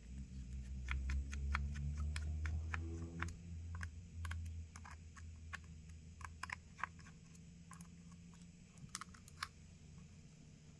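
Small, sharp clicks and ticks of a precision screwdriver and tools working on the screws and metal parts of a smartphone's opened body, scattered and irregular, with a low hum in the first few seconds.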